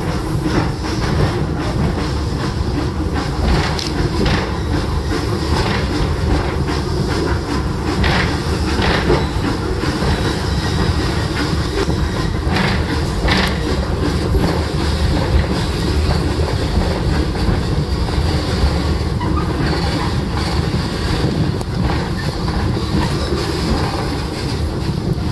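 Open-sided passenger car behind coal-fired steam locomotive No. 3 Torch Lake, rolling along the track. It makes a steady rumble and rattle, with the wheels clicking sharply over rail joints now and then.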